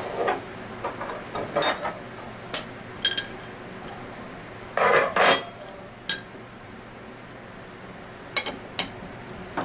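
Metal tools and pump fixture parts clinking and knocking as they are handled and fitted, a series of separate sharp clinks, some ringing briefly, with a louder double knock about halfway through and two more clinks near the end.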